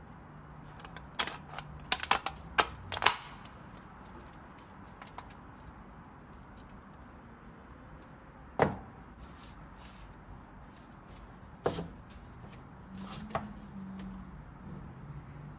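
A few sharp clicks and knocks: a quick cluster in the first three seconds, then single ones spread apart.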